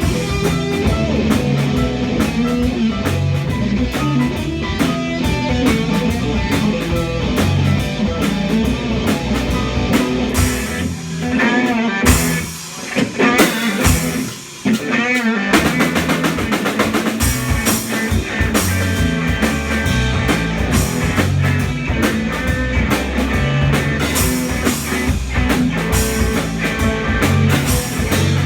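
Rock band playing live, with drum kit, bass and electric guitar. About halfway through, the drums and bass drop out for a few seconds under a bending guitar line, then the full band comes back in.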